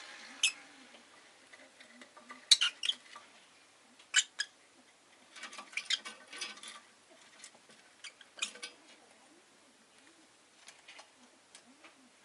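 Rosy-faced lovebird giving short, sharp squeaky chirps in scattered bursts, with a quick run of them in the middle.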